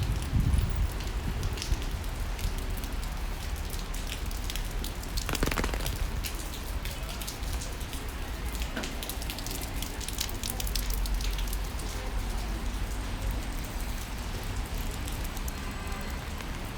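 Rain falling steadily, with many close drops ticking, over a low steady rumble; a brief louder splash-like burst about five seconds in.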